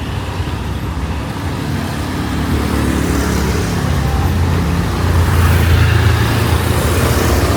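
Road traffic: a motor vehicle's engine running close by, growing louder about a third of the way in and loudest near the end as it passes, over general street noise.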